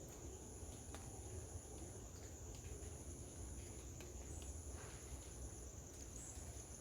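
Insects trilling in a steady high-pitched chorus, with a second, higher insect tone starting and stopping every couple of seconds, over a low background rumble.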